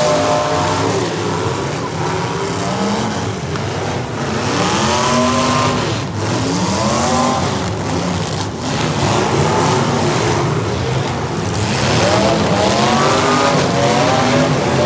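Several modified demolition derby cars revving their engines hard at once, pitches rising and falling as they accelerate and back up, over a steady din of engine and tyre noise. There are a couple of sharp impacts partway through.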